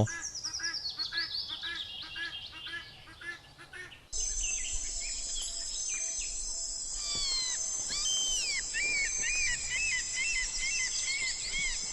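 Guinea fowl calling in a rapid run of harsh repeated notes, about three a second. About four seconds in, the sound changes suddenly to a steady high insect drone with birds chirping over it.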